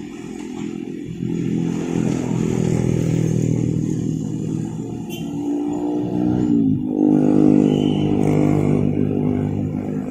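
Motor vehicle engines running close by at a level crossing. One engine's pitch drops sharply about seven seconds in, as a vehicle passes or shifts gear.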